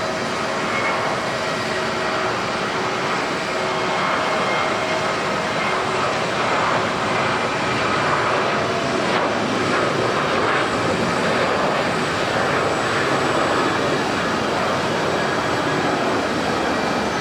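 Jet airliner engines heard close by: a steady jet noise with a few held whining tones, growing a little louder from about four seconds in.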